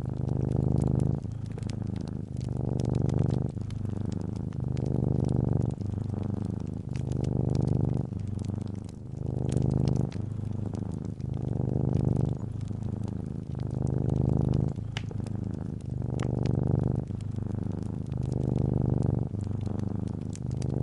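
Domestic cat purring steadily, the purr swelling and easing about every two seconds with each breath. Light fireplace crackles pop over it.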